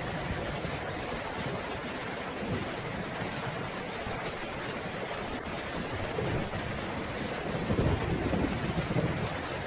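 Steady heavy rain falling, with a low rumble of thunder swelling up near the end.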